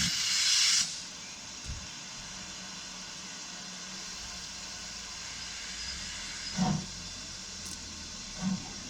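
BR Standard Class 2MT steam locomotive letting out a loud burst of steam hiss that stops about a second in, then a steady low background broken by three short dull knocks.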